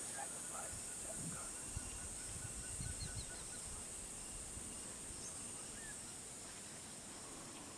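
Rainforest ambience: a steady, high-pitched insect chorus that fades a little toward the end, with a rapid run of short animal calls, about four a second, during the first few seconds and a few brief chirps.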